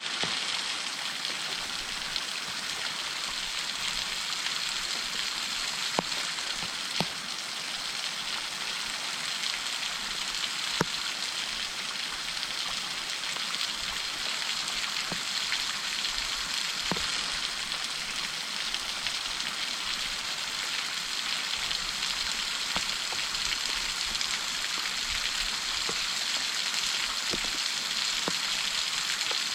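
Waterfall pouring and splashing in a steady, hissing rush, with a few sharp ticks now and then.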